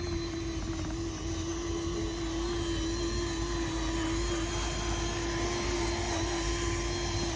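Small electric motor of a hand-built RC truck running with a steady, slightly wavering whine.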